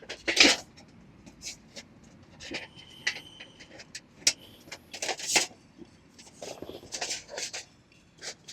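Irregular rustling, scraping and light knocks of things being handled, loudest just after the start and again around five seconds in, with a brief thin squeak around three seconds in.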